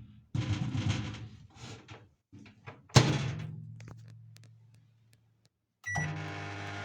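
Microwave oven door shut with a single thunk about three seconds in. Near the end a click and a short beep come, and the oven starts up with a steady low electrical hum.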